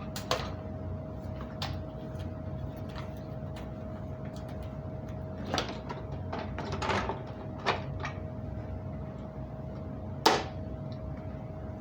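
Scattered clicks and knocks as a Hoover SteamVac carpet cleaner is handled and set up while switched off. The loudest knock comes near the end, over a faint steady hum.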